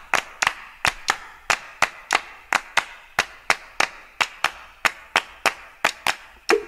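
Wooden percussion clicking in a steady rhythm, about four sharp clicks a second; near the end pitched notes come in as the beat turns into music.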